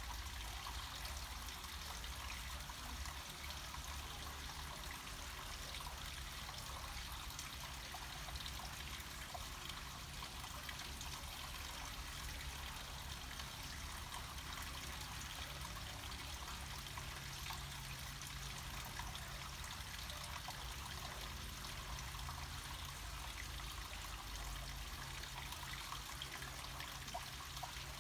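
Water trickling and splashing steadily down a small mountain stream or waterfall.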